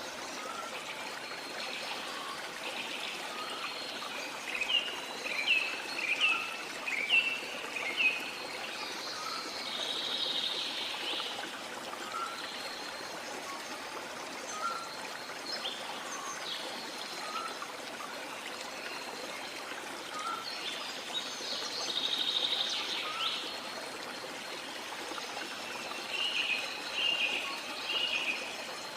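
Steady rush of flowing water with birds calling over it: a run of short, sharp falling calls a few seconds in and again near the end, and longer buzzy calls twice in between. A soft lower chirp repeats every second or so underneath.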